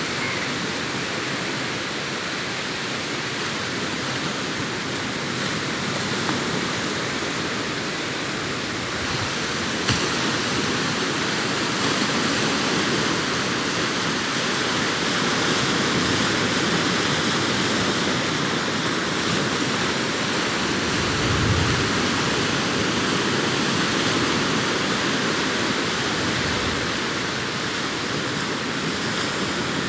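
Sea waves breaking on a beach: a continuous rushing surf that swells briefly about twenty seconds in, with a single short click about ten seconds in.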